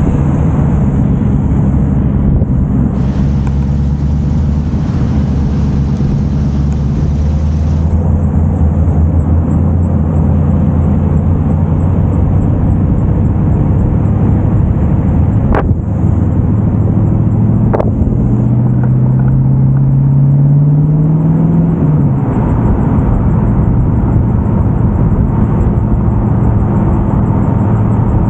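Car engine running steadily under way. About two-thirds of the way through, the pitch rises as the car accelerates, then drops sharply, as at a gear change. Two brief clicks come shortly before the rise.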